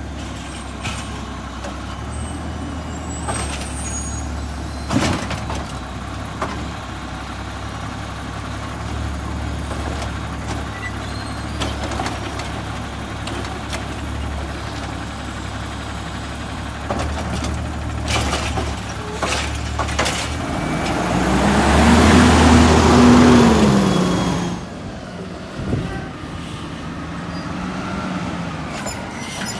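Side-loader garbage truck's diesel engine running steadily, with scattered clanks from the lifting mechanism. About two-thirds of the way in, the engine revs up and back down with a loud rush of noise over about three seconds.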